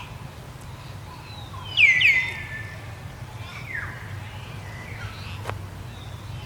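High animal calls: two sharp calls sweeping down in pitch about two seconds in, the loudest sound, with fainter, similar calls before and after. A single sharp click comes near the end, over a steady low hum.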